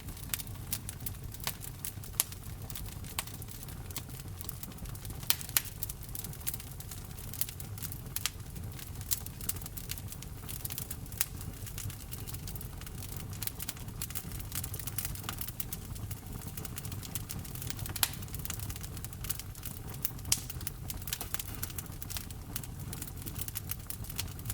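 Wood fire crackling in a fireplace: irregular sharp pops and snaps over a low, steady rumble, with a few louder pops scattered through.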